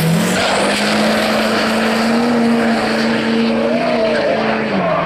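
Turbocharged diesel truck engine held at high revs at the drag-strip line, loud and steady in pitch over heavy noise, the pitch dropping near the end.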